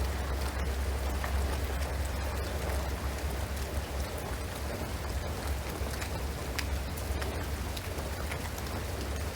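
Steady rain falling on a shingled roof and pine trees, an even patter with scattered sharper drop ticks, over a steady low hum.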